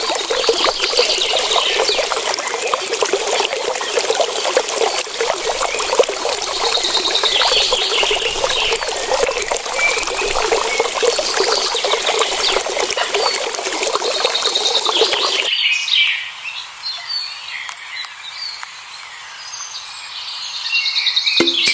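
Water trickling steadily, with birds chirping over it now and then. About fifteen seconds in, the water noise stops abruptly and only fainter bird chirps remain.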